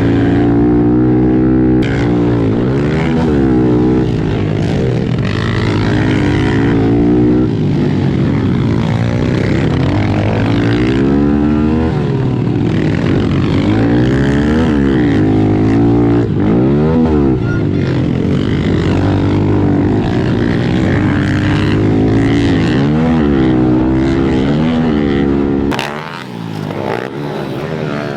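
Small 110cc four-stroke pit bike engines racing, one revving up and down every second or two through the track while other bikes' engines drone alongside. Near the end the sound drops and thins.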